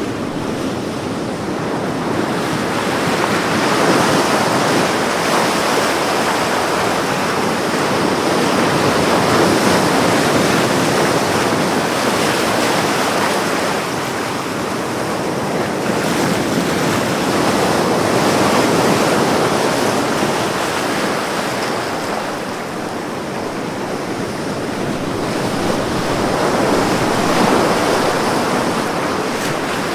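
Sea waves surging and washing in, a steady rush of surf that swells and eases every eight to ten seconds.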